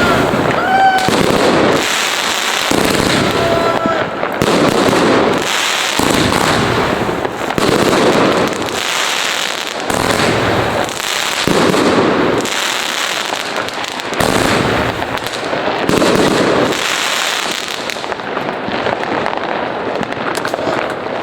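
Many fireworks and firecrackers going off at once: dense, continuous crackling and banging that swells and eases every second or two, with a few short whistles in the first few seconds.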